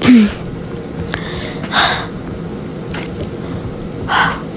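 Two short, breathy hisses about two seconds apart, like sharp breaths or sniffs close to the microphone, over a steady background hum, with a brief vocal sound at the very start.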